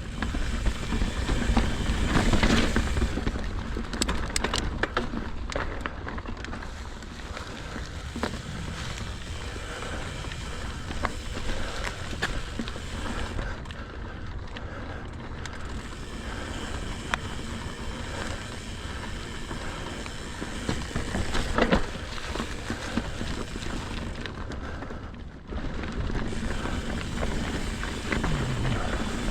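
Mountain bike riding over a rough, frozen dirt trail: steady tyre and wind noise on the microphone, broken by frequent sharp rattles and knocks from the bike.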